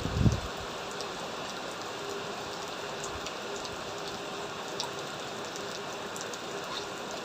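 Heavy rain falling steadily, with scattered drops ticking. One low thump about a quarter second in.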